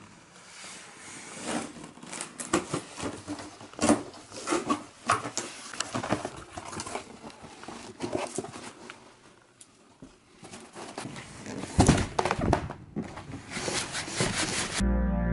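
Unboxing sounds of a speaker's packaging being handled: irregular rustling, crinkling and small knocks, with a louder cluster about twelve seconds in. Music begins just before the end.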